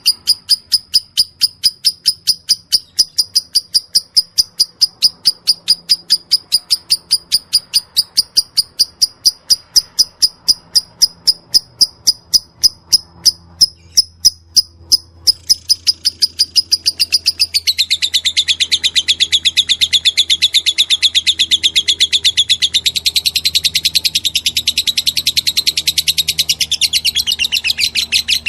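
Lovebird ngekek: a long, unbroken run of sharp high chirps at about four a second. About 18 seconds in, it changes to a denser, lower chatter.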